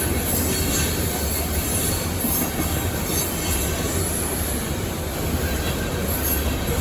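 Loaded coal train's cars rolling past, a steady rumble of wheels on rail with some high wheel squeal.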